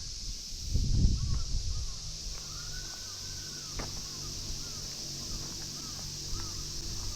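Birds calling outdoors in a run of short arched notes, with one longer drawn-out call about two and a half seconds in, over a steady high-pitched drone. Heavy low thumps, likely footsteps, come in the first second or so.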